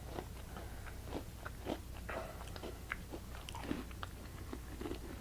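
Close-up crunchy chewing of Oreo cookies with crushed nuts in them: many small, irregular crunches.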